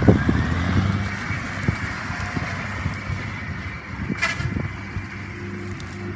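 Engine of a heavy vehicle running steadily, with a short high-pitched noise about four seconds in.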